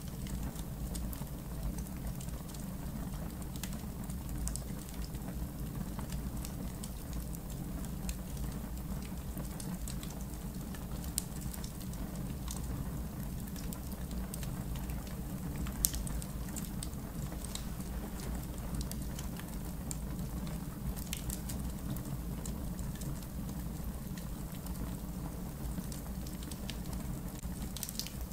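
Campfire in a fire pit crackling: scattered sharp pops and snaps over a steady low rumble, with one louder pop about halfway through.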